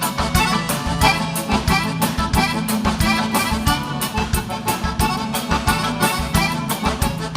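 Live gaúcho dance band playing an instrumental break, the accordion leading over bass and drums with a steady, quick dance beat.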